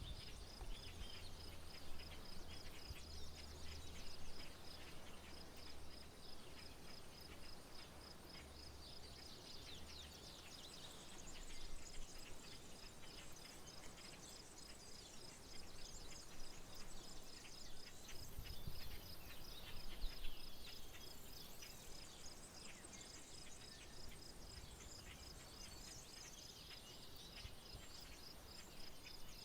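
Rural outdoor ambience: an insect, likely a cricket, trilling in a steady high pulse throughout, with birds chirping here and there and a low rumble in the first ten seconds or so.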